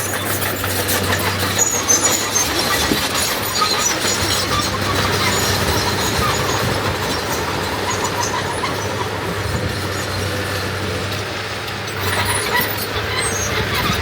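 Diesel engine of heavy earth-moving machinery running steadily, with scattered high metallic squeaks over a constant low hum.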